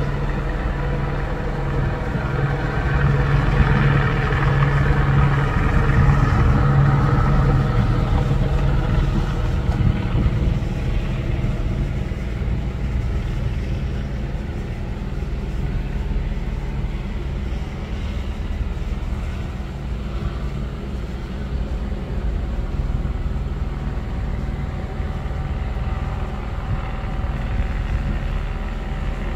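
A motor vehicle's engine idling with a steady low hum, which swells for several seconds a couple of seconds in and then settles.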